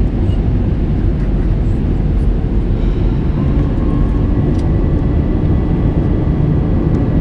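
Airbus A321 in flight: steady engine and airflow roar, with faint engine tones that rise slightly about three seconds in.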